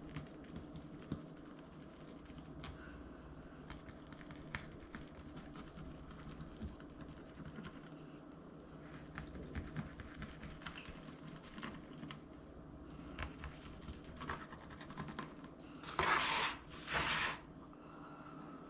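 Knife scoring a raw flounder on a cutting board: irregular light clicks and taps as the blade cuts the cross-hatch. Near the end come two louder noisy bursts, each about a second long.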